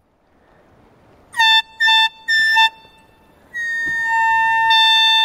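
A high, steady signal tone blown in three short blasts and then one long blast, from a hand-held safety whistle or horn of the kind carried on a kayak.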